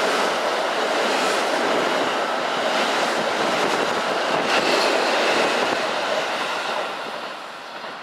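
Electric commuter train running past a station platform at close range, a loud steady rush of wheel and track noise that fades away near the end.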